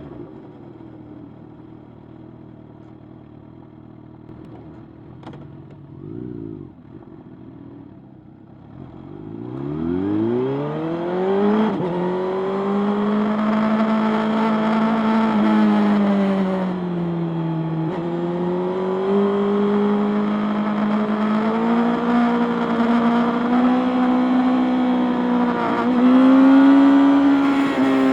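Motorcycle engine, quiet and low for the first several seconds, then revving up with a steep rise in pitch about ten seconds in. It then runs loud and fairly steady at speed, with a few brief drops in pitch.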